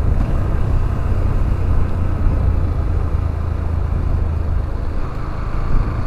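Motorcycle engine running steadily while riding, a low rumble under a rush of road and wind noise, with no distinct throttle blip.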